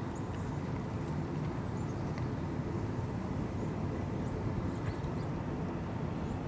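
Steady low rumble of outdoor background noise, with a few faint, brief high chirps.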